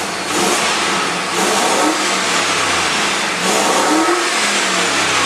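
Warmed-up Chevrolet 4.8 L LS V8 of a 1999 Silverado being revved while the truck stands still. The engine speed rises and falls a few times.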